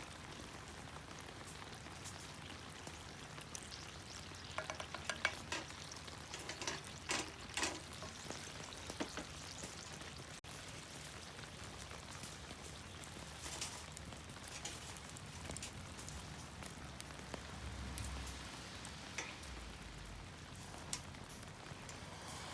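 Food sizzling in a pan over a campfire, a steady frying hiss, with a run of clinks and scrapes from a utensil stirring it a few seconds in and a few more later.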